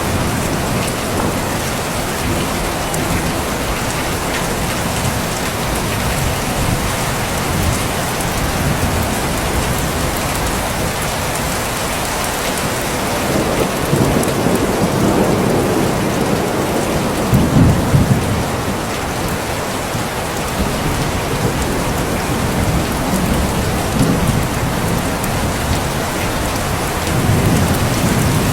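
Steady rain falling, with low rumbles swelling up about halfway through and again near the end.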